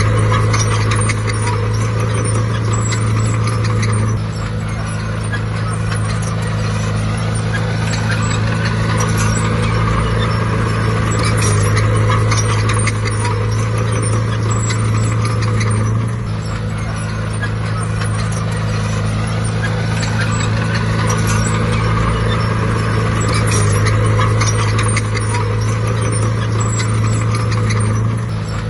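Bulldozer's diesel engine running under load with a steady clatter of clicks, the engine note dropping and building again about every twelve seconds as it works.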